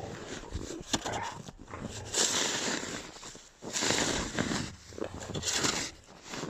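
Puppies play-fighting: dog noises come in three loud, rough spells about two, four and five and a half seconds in, over quieter scuffling.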